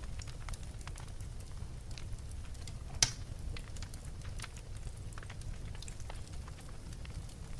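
Wood fire burning in a fireplace: a low steady rumble with scattered crackles and one loud pop about three seconds in.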